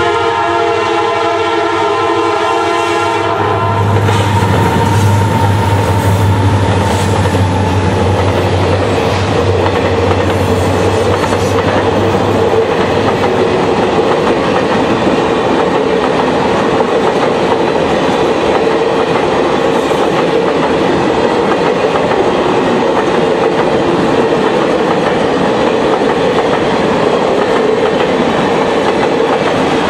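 Horn of Norfolk Southern SD70M diesel locomotives sounding a held chord that stops about three and a half seconds in. The locomotives' engines then pass with a low, steady sound for several seconds, followed by the steady clickety-clack of the circus train's passenger cars rolling over the crossing.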